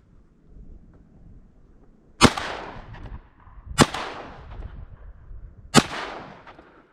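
Three shotgun shots, a second and a half to two seconds apart, each with a long echoing tail, from a Stoger 3500 semi-automatic shotgun.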